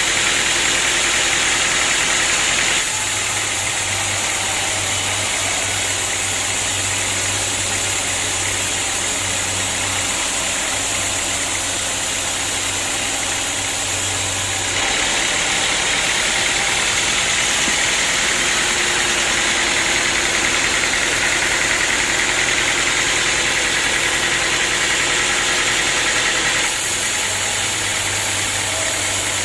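Sawmill machinery running steadily, with a constant low hum and hiss. The tone shifts abruptly three times: about 3 seconds in, halfway through, and near the end.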